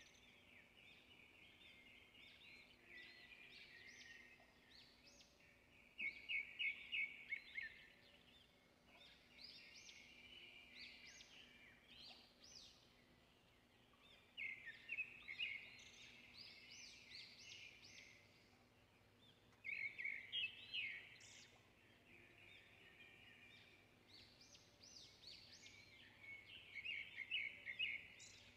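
Birds chirping, with bursts of quick repeated notes every several seconds and softer twittering in between, over a faint steady hum.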